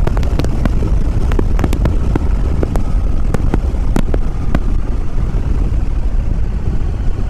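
Heavy wind rumble on the microphone of a Yamaha WR250R riding at highway speed, with the bike's 250 cc single-cylinder engine running underneath and scattered sharp pops through the first few seconds.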